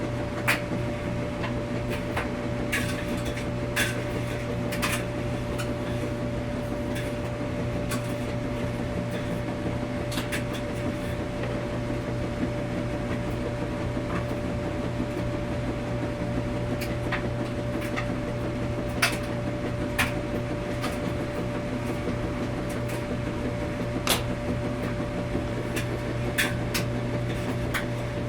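Washing machine running with a steady low hum and a faint steady tone, broken by irregular sharp clicks and knocks every few seconds, the loudest about half a second in and near 19 and 24 seconds.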